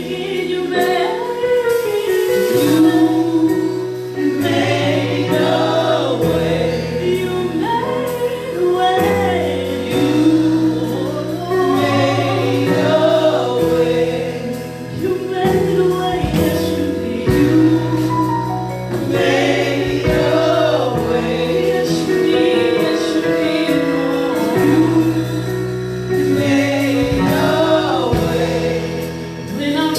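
Gospel choir and congregation singing a worship song over a band, with held low chords underneath the moving voices.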